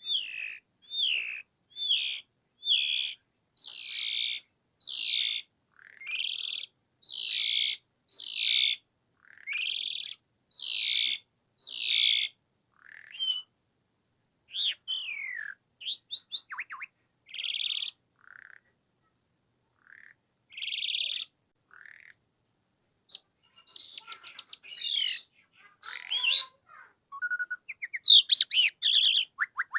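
Asian pied starling (jalak suren) singing vigorously: a run of about a dozen loud, harsh repeated calls at roughly one a second, then scattered varied whistles, building into rapid chattering song near the end.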